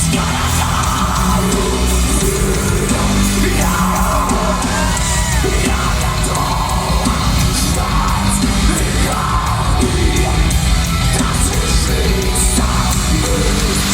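Live heavy rock music: a loud band playing, with a voice singing over it.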